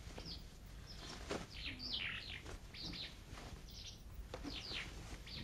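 Small songbirds chirping: quick, short chirps that slide downward in pitch, several close together, repeating on and off throughout.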